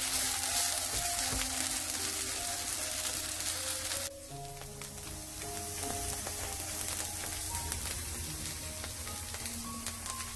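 Shredded-carrot pancake sizzling as it fries in oil in a non-stick pan, a steady crackling hiss that drops to a softer sizzle about four seconds in. A light background melody of sustained notes plays underneath.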